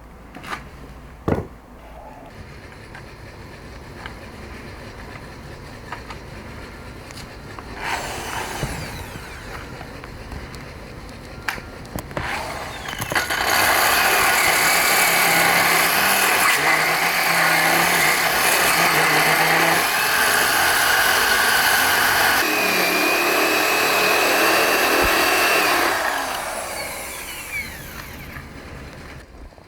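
A few light knocks and clicks, then a handheld electric power tool running against stone for about thirteen seconds with a high whine that shifts in pitch, winding down near the end.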